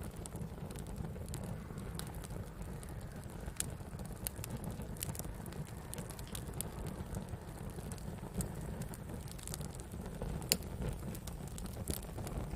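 Wood campfire crackling: irregular sharp pops over a low steady rumble, with one louder pop about ten seconds in.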